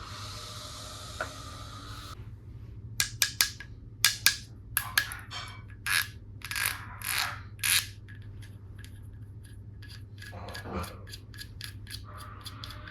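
Plastic toy tool pieces being handled: a steady hiss at first, then a cluster of sharp plastic clicks and rubbing, then a run of light, evenly spaced ticks near the end.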